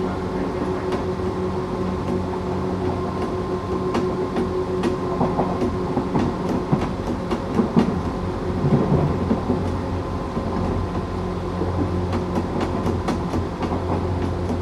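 Tokyu 8500 series electric train with Toyo Denki traction motors, heard from on board while running along the track: a steady rumble with several held humming tones, and wheels clicking sharply over rail joints. The running gets rougher and a little louder for a few seconds around the middle.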